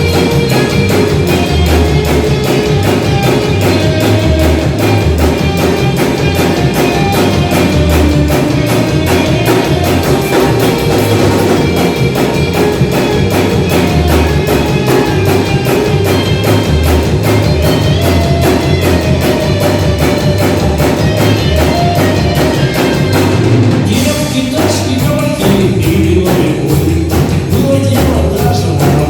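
Live rock band playing, with a drum kit keeping a steady beat under bass and guitars. Just before the last five seconds the cymbals drop out for a moment, then the band comes back in.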